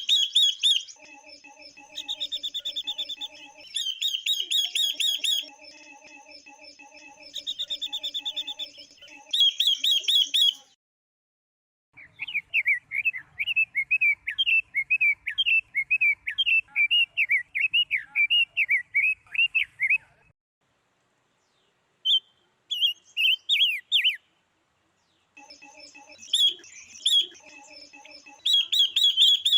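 Female silver-eared mesia and female red-billed leiothrix calls, a recording used to provoke males into song: short repeated phrases of rapid, high chirping notes. In the middle, a run of lower, warbling chatter lasts about eight seconds, set off by short silent gaps.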